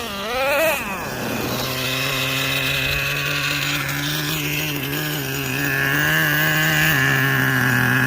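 Small nitro glow engine of a Traxxas Revo 3.3 RC truck, its pitch wavering briefly at first, then running at a steady idle.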